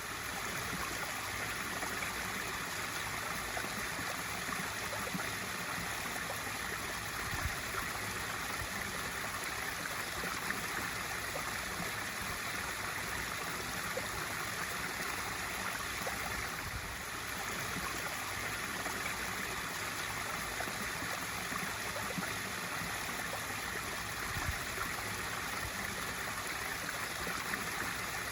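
Pool waterfall feature splashing steadily into a swimming pool, a continuous rush of falling water.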